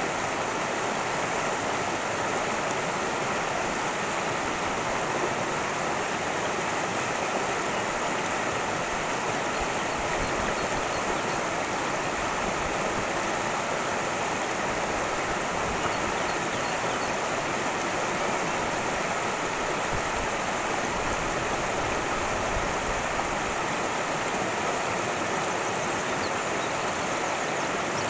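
Cascading stream water rushing steadily over rocks, a constant full, even roar.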